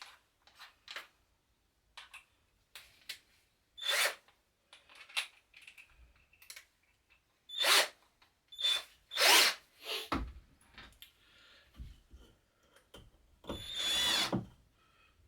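Mailtank cordless drill run in a series of short bursts on the trigger, its motor whining with each pull. The last burst is the longest, about a second, with the whine rising as it spins up.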